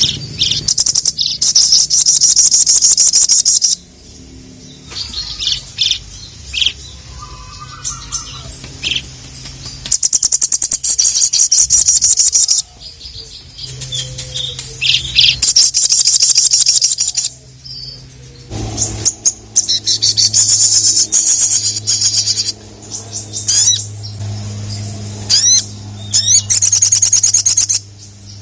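Sogok ontong (sogon) sunbird singing in its 'gacor' calling style: repeated bursts of rapid, high trilling, each about two to three seconds long, with quick sweeping notes near the end. A faint low hum runs underneath.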